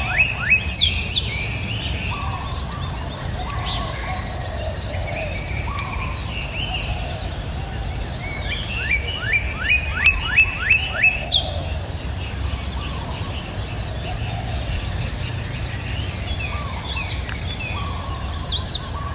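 Birdsong: a bird sings a quick series of about half a dozen rising chirps, twice, while softer calls come and go between, over a steady high-pitched whine and a low background rumble.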